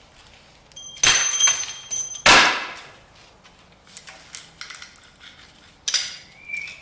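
Steel rocker arms from a 5.3 LS clanking as they are handled and dropped onto a pile of parts. There are two loud ringing metal clanks about one and two and a half seconds in, lighter clicks around four seconds, and another ringing clank near the end.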